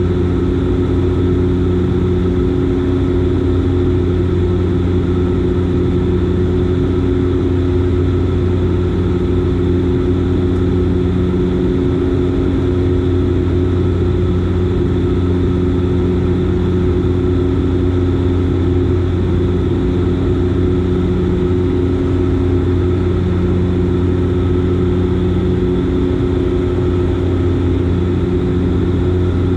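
Dash 8 Q400's Pratt & Whitney PW150A turboprop engines and propellers running in flight: a steady, loud low drone with a slow rise and fall in one of its tones.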